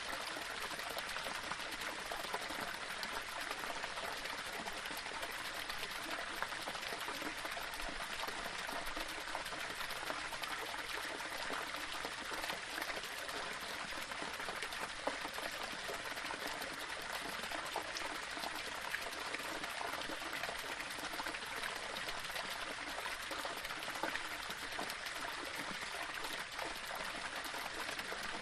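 Small waterfall splashing and trickling over stones, a steady even rush with scattered small splashes.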